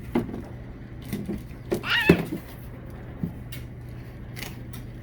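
A short, high, falling cry about two seconds in, over a steady low hum, with a few light knocks around it.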